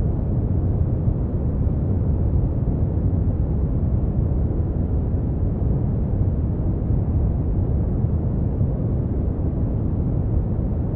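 Brown noise: a steady, deep rumbling hiss, heaviest in the bass and rolling off toward the treble, with no change.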